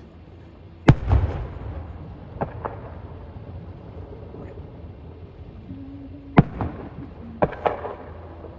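Fireworks going off: a series of sharp bangs with short echoing tails, the loudest about a second in, followed by three pairs of quicker, lighter bangs.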